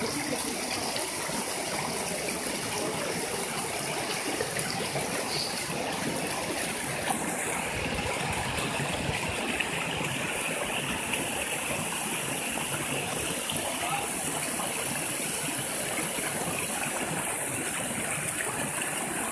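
Waterfall: falling water rushing steadily, an even hiss with no break.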